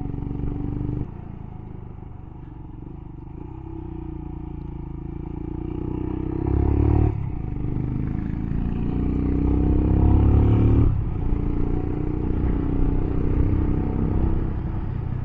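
Motorcycle engine under way, accelerating through the gears: its pitch climbs steadily and drops back at gear changes about seven seconds in and again about eleven seconds in, after an easing of the throttle about a second in.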